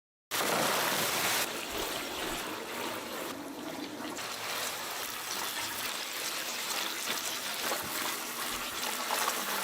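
Hot oil sizzling and crackling steadily as chicken deep-fries, a little louder for the first second or so.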